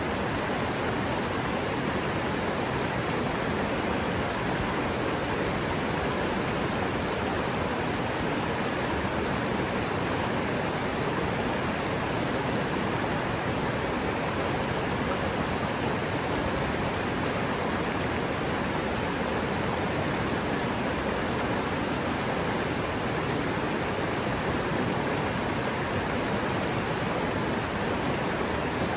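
River water rushing steadily over a forest streambed: a constant, even wash of noise with no breaks.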